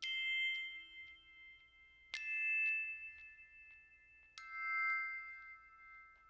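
Three struck chime-like notes, each ringing out and slowly fading, about two seconds apart: bell-like mallet tones in background music.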